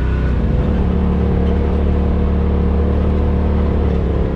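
Side-by-side UTV engine running at a steady speed while driving, holding an even pitch with a steady whine over the drone.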